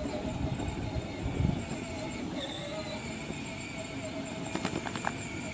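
Ride-on tractor driving along: a steady motor whine over the rumble of its wheels rolling across the ground, with a few quick clicks near the end.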